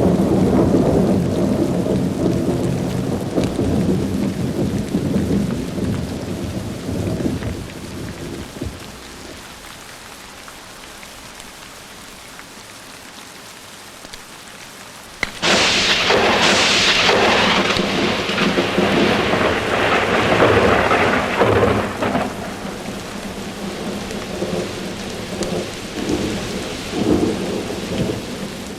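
Thunderstorm with steady rain: a rolling thunder rumble fades away over the first several seconds, leaving the rain, then about 15 seconds in a sudden sharp thunderclap breaks out and rumbles on for several seconds before dying away in lower rolls.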